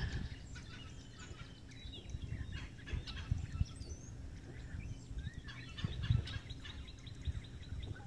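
Faint bird calls, short scattered chirps and a few brief whistled glides, over a low, uneven rumble.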